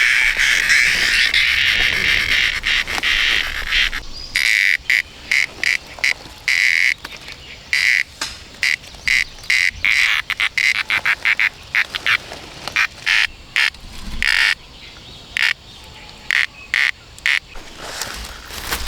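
Frogs calling: a dense, steady chorus at first, then from about four seconds in, one loud frog giving short calls repeated in quick runs over the background chorus.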